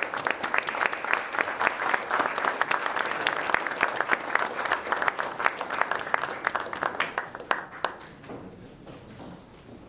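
Audience applauding, dense clapping that thins out and dies away about eight seconds in.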